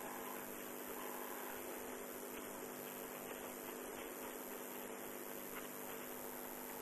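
Faint steady hiss and low hum with no distinct sounds: background noise.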